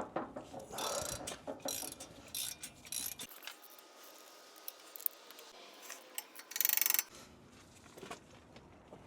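Tools clinking and scraping on metal while axle bolts are worked, with one short, loud, even rattling burst about six and a half seconds in.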